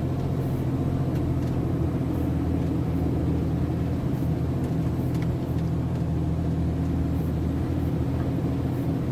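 MAN TGS 33.480 truck's diesel engine running with a steady, even low drone, its pitch holding level.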